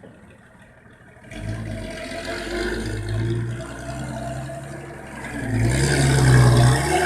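Six-wheel dump truck's engine picking up about a second in and running harder, growing louder toward the end.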